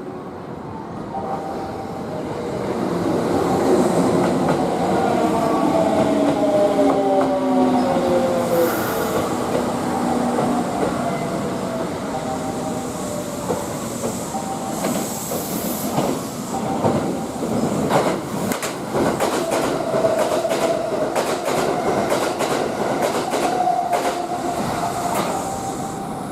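Kintetsu limited express electric train passing through the station without stopping. Its motor whine falls in pitch as it goes by, then a run of sharp wheel clicks over the rail joints.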